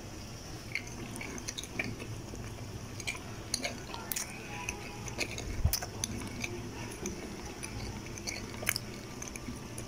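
Close-up eating sounds: a person biting and chewing food, heard as irregular, sharp, wet clicks and smacks.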